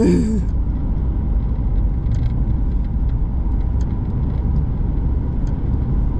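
A car driving, its steady low road and engine rumble heard from inside the cabin.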